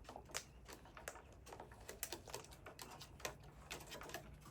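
Faint, irregular sharp clicks and cracks, a few a second: cockatoos cracking corn kernels with their beaks.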